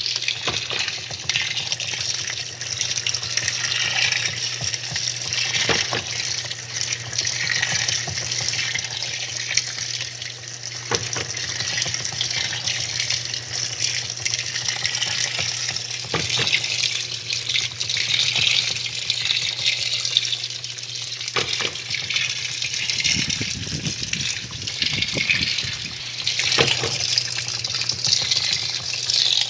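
Washing machine running with water sloshing and gushing in the drum over a steady low motor hum, with a short knock about every five seconds.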